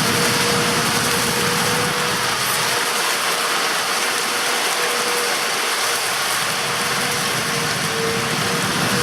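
Tractor-drawn peanut combine running steadily, a dense mechanical clatter with a steady whine running through it.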